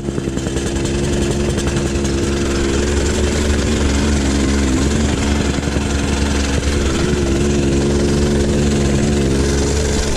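Small gas engine of a whacker packer (compactor) running steadily.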